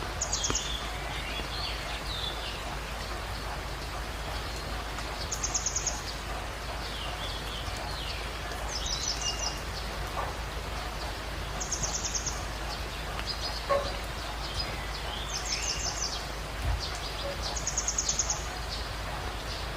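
Birds singing: a short, rapid, high-pitched trill repeats about every three seconds, with other chirps and whistled notes in between, over a steady hiss.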